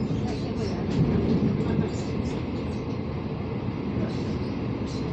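Taiwan Railways local electric multiple-unit train running, heard from inside the passenger carriage: a steady low rumble with faint light ticks and rattles.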